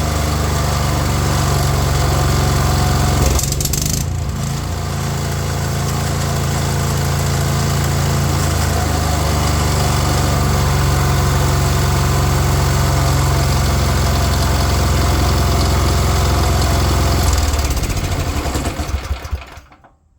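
Small petrol engine of a water blaster (pressure washer) running steadily on its new carburettor, without the water pump fitted so it is unloaded. It dips briefly about four seconds in, then is shut off near the end and runs down to a stop.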